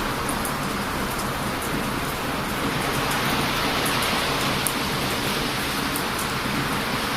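Steady rush of heavy ocean surf on a beach, with a wood campfire crackling over it in scattered sharp little pops.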